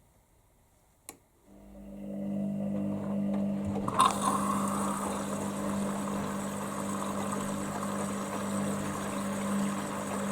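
Hoover Dynamic Next washer-dryer working: a click about a second in, then a steady hum from about a second and a half, and from about four seconds a steady rush of water, as the machine takes in or moves water for the wash.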